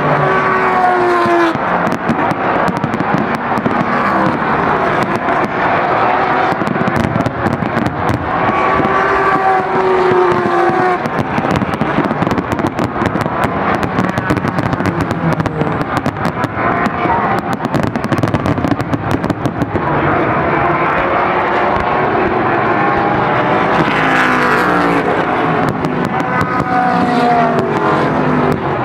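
A fireworks display bursting and crackling in quick succession. Under it, sports racing cars pass on the track several times, the engine pitch dropping as each one goes by.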